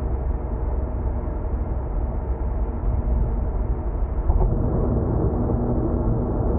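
Car cabin noise at expressway speed: a steady low rumble of tyres and engine. A single short knock comes about four seconds in.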